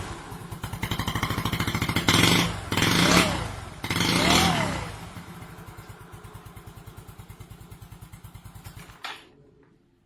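Suzuki Raider 150's single-cylinder engine running with a rapid, even beat, revved up and back down three times in quick succession. It settles back to idle, then stops abruptly near the end.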